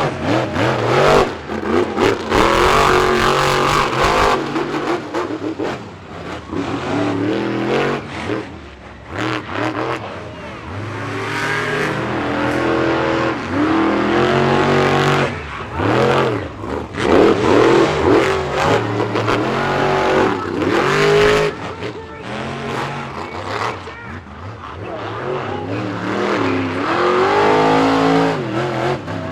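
Monster truck engines revving hard during a race, the pitch repeatedly climbing under throttle and dropping back as the drivers lift.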